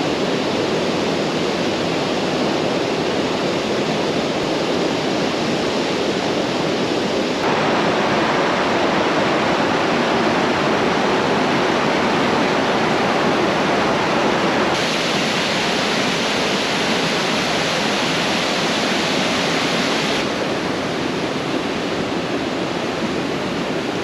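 Rushing water of Yosemite Creek at the top of Upper Yosemite Fall: a loud, steady roar of whitewater. Its tone changes abruptly three times, at about a third, two thirds and five sixths of the way through.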